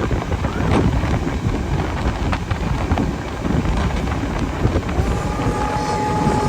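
Train running with a steady heavy rumble and scattered knocks. About five seconds in, a steady tone of several pitches sets in and holds.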